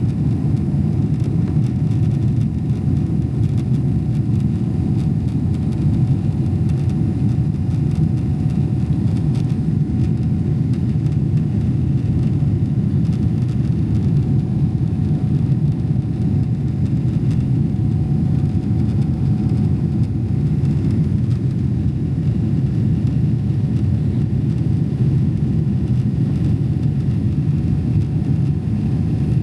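Steady low rumble of a Boeing 777-300ER's engines and airflow heard inside the passenger cabin, with a faint constant hum over it.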